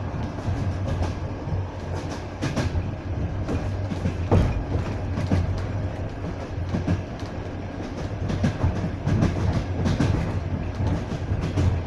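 Passenger train carriage rolling along the track, heard from inside the carriage: a steady low rumble, with the wheels knocking over rail joints every so often.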